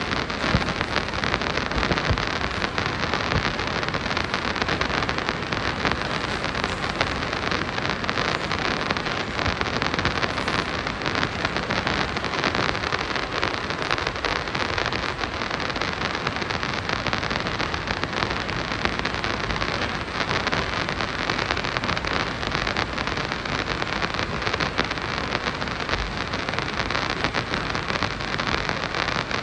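Steady rushing noise of a Moscow Metro 'Moskva' train riding through the tunnel, with wheels on rails and a constant crackle.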